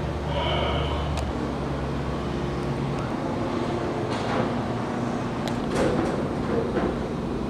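Propeller aircraft engine droning past and fading into a steady rumble, with a few light clicks or knocks about a second in and again near six seconds.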